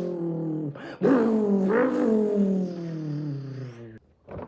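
A man's mouth imitation of a Koenigsegg Agera RS engine revving: a buzzing engine-like tone that sags in pitch, breaks off briefly, shoots back up with a second quick rise, then winds down and stops abruptly.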